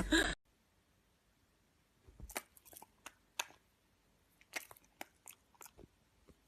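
A dachshund crunching and chewing food, a run of sharp, irregular crunches starting about two seconds in.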